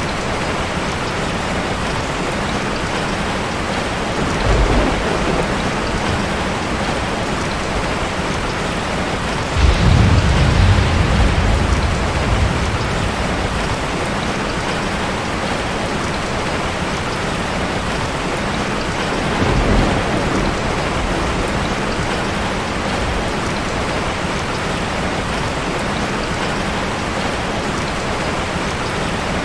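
Steady rushing water noise with three deep rumbles. The loudest rumble starts suddenly about ten seconds in and fades over about three seconds.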